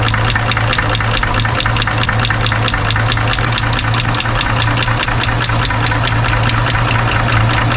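1963 Chevrolet truck's straight-six engine idling steadily, with a rapid, even ticking from the engine throughout.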